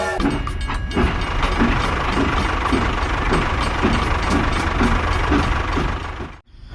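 A vehicle engine running steadily with a low chug about twice a second. It cuts off suddenly near the end.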